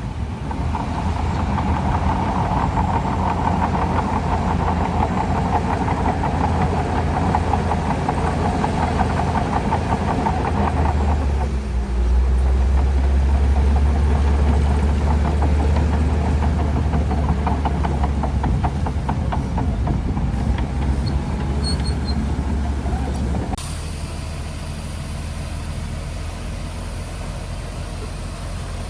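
Shantui DH17C2 crawler bulldozer's diesel engine running under load, with a higher whine over the low rumble. About eleven seconds in the whine fades and the rumble deepens and grows louder. The sound changes abruptly and drops in level about five seconds before the end.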